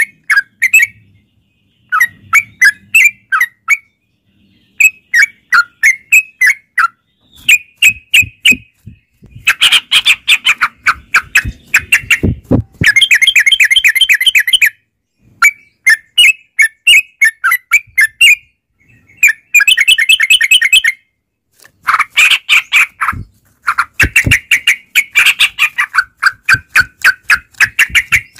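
Yellow-vented bulbuls (trucukan) singing in repeated bursts of rapid chattering notes, with short pauses between phrases and a few denser, louder runs.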